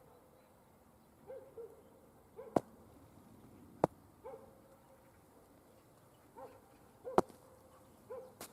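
A dog barking in the distance: short, high yelps repeated irregularly, some in quick pairs. Three sharp clicks or cracks, the loudest sounds, come at about two and a half, four and seven seconds in.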